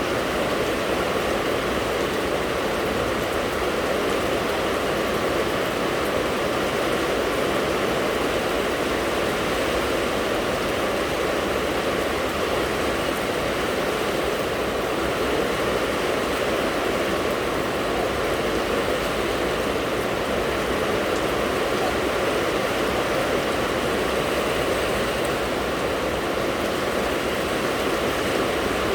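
Rain falling steadily in an even, unbroken hiss, with no single drops or thunder standing out.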